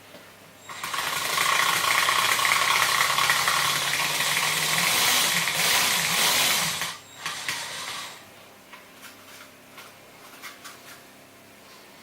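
Homemade mechanical V8 sound generator for an RC truck, a small electric motor spinning a disc with eight segments cut out to mimic the eight cylinders, running with a fast, dense rattle. It starts about a second in and cuts off sharply at about seven seconds, leaving a brief fading rattle and a few faint clicks.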